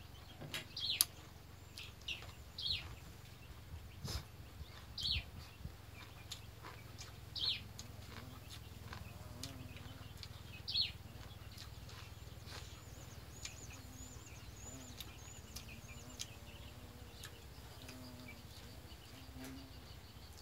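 Birds chirping in short falling calls every second or two, with a thin high repeated trill in the middle. A few light clicks stand out early on, like a spoon against a bowl.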